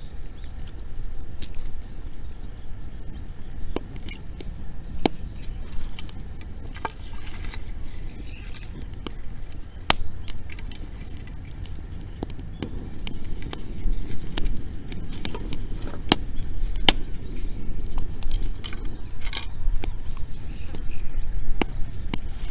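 Bonfire of dry wood burning, crackling with irregular sharp pops over a steady low rumble.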